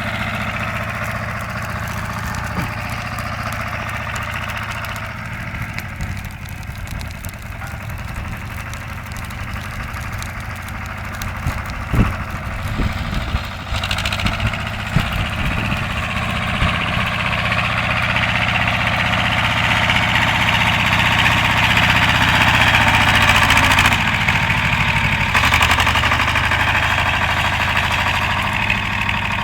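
BJR Falcon 40 articulated tractor's engine running steadily. There is a single sharp knock about twelve seconds in, and the engine grows louder over the last third.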